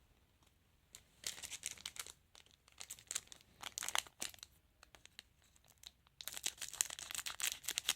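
Crinkling and tearing of a foil trading-card pack wrapper being handled and torn open, in two spells of crackly rustling with a short lull between.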